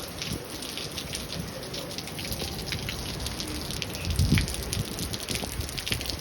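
Rain falling, with many individual drops ticking close by over a steady wash of gushing runoff water. A low thump about four seconds in.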